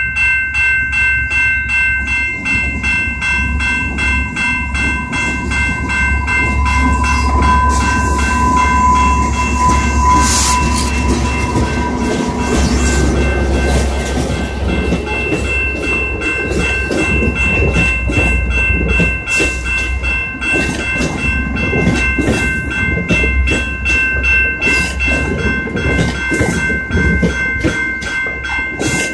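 Level-crossing warning bell dinging rapidly and evenly while a commuter train of bilevel coaches approaches and runs through the crossing, with a heavy low rumble and, from about halfway, the clatter of the passing cars' wheels over the rails.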